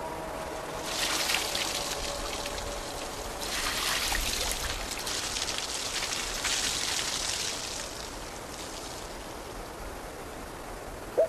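Water trickling and splashing in four surges of crackly hiss, with a brief sharp tone right at the end.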